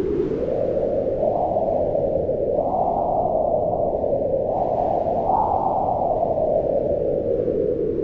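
Howling wind: a steady rushing noise whose pitch swells up and sinks back in slow waves every couple of seconds.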